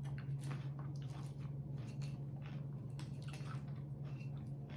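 A person chewing a mouthful of kale salad close to the microphone: irregular, crisp crunches and wet squishes, over a steady low hum.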